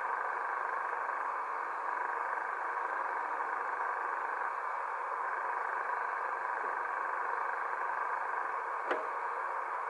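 Steady rain falling on the rainforest and tarp, an even hiss with no let-up, with one sharp tap about nine seconds in.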